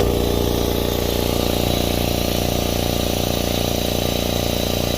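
Makita MAC700 air compressor's freshly oiled pump running steadily, with an even, rapid pulse, during its break-in run with the valve left open so it runs without building pressure.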